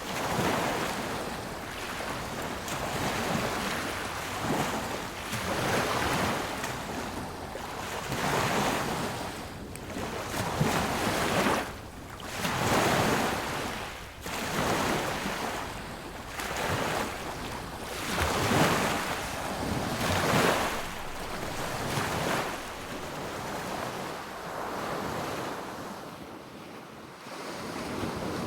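Sea waves breaking on a beach: surf rushing in and washing back in repeated surges about every two seconds, easing off near the end.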